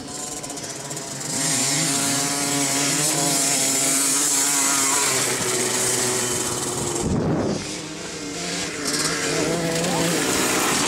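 Dirt bike engine running steadily, its note dipping and picking up again about seven seconds in.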